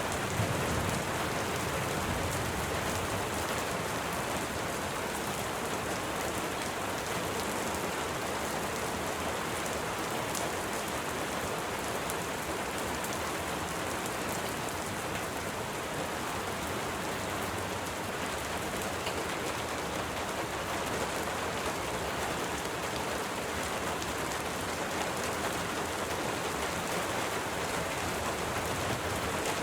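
Rain falling steadily, a constant even hiss of drops.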